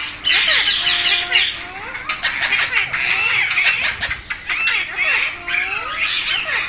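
Rose-ringed parakeets squawking and chattering, a rapid run of short, harsh calls one after another, typical of the birds squabbling with each other.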